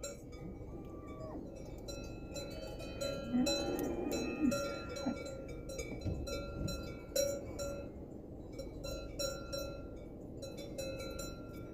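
Several cowbells ringing with irregular clanks that keep sounding at the same few pitches, as from grazing cattle wearing bells.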